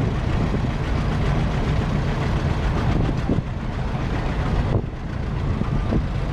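Vintage tractor engine running steadily at low speed, a low rumble.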